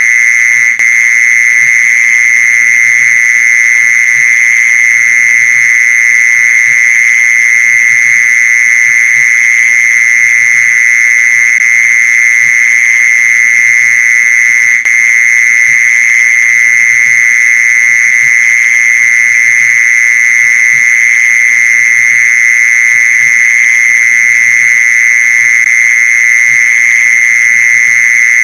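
Mole cricket song: one loud, unbroken trill pitched at a single high note, with two very brief dips, about a second in and about halfway through.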